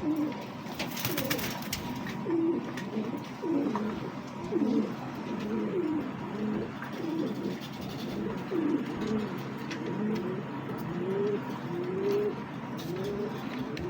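Several domestic pigeons cooing, their low rising-and-falling coos overlapping one after another.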